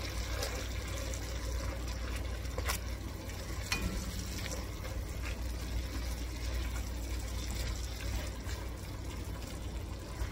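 Diced carrots and onions sizzling in melted butter in an enameled cast-iron pan over medium-high heat, a steady hiss. A silicone spatula stirs them, with a few light clicks against the pan.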